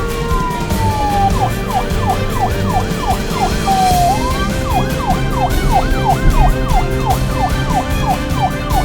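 Siren sound effect: one slow falling wail, then a fast warbling yelp that sweeps up and down about three times a second, briefly pausing near the middle, over background music.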